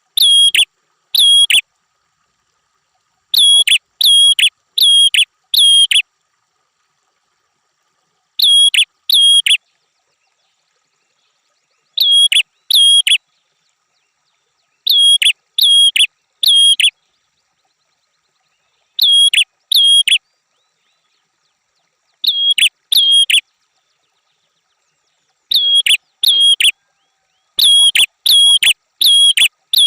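Prenjak (prinia) singing: loud, sharp, high call notes, each dropping quickly in pitch, delivered in bursts of two to four notes with pauses of a couple of seconds between the bursts.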